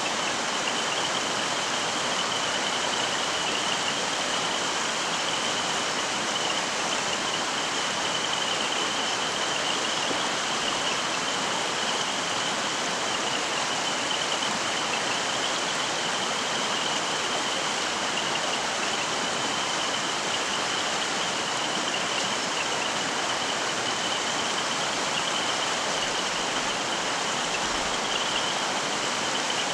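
Mountain stream flowing: steady rushing water, with a faint steady high tone running through it.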